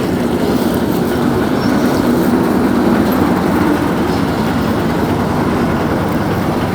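A cross-river ferry's engine running steadily: a loud, even, low rumble with no breaks.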